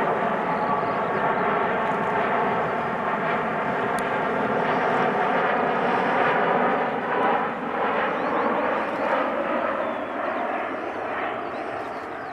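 Boeing 787 jet engines passing low in a fly-by: a steady jet noise with a slow upward sweep in its pitch, easing off near the end.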